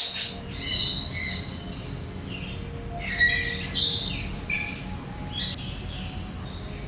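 Small birds chirping in quick, high calls, one cluster about a second in and a busier spell from about three to five and a half seconds in, over a steady low hum.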